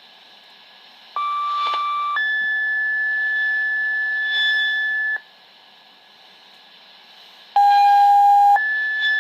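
Fire-dispatch two-tone sequential paging tones over a pager or scanner speaker. A one-second tone steps up to a higher tone held about three seconds and stops. After a two-second pause a second pair starts: a short lower tone, then a long higher tone that runs on.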